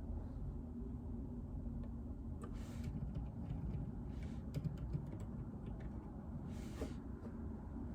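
Typing on a JJK84 keyboard with Outemu Silent Peach linear switches: a run of quiet keystrokes from about a third of the way in to past the middle, with two brief rustles and a low steady room hum.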